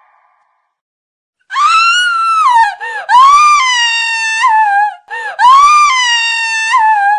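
Horror sound-effect screaming: three long, high-pitched screams, starting about a second and a half in, each sliding down in pitch at its end.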